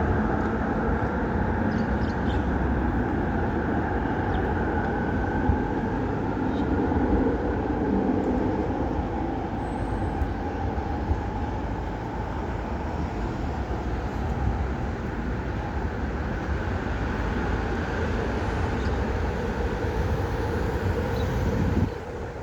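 Steady, loud rumbling noise of a running vehicle, with faint drawn-out tones above it; it drops off abruptly near the end.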